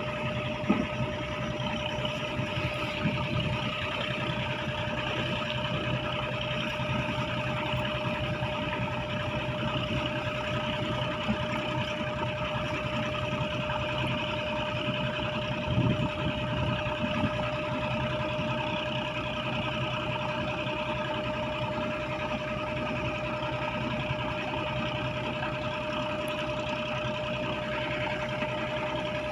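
Fishing boat's engine running at a steady speed, a constant drone that holds one pitch throughout.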